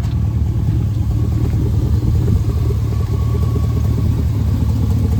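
A 2002 Chevrolet Silverado's 4.8-litre Vortec V8 idling steadily.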